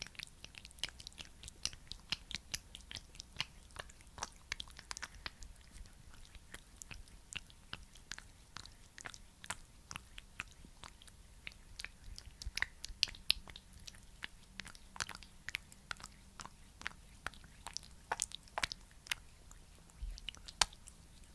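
Close-up sticky, wet clicks and crackles of a thick skincare product being worked near the microphone, irregular and several a second.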